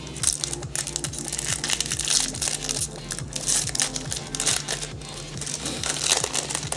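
Foil booster-pack wrapper crinkling and tearing as it is opened and handled, in quick irregular crackles, over steady background music.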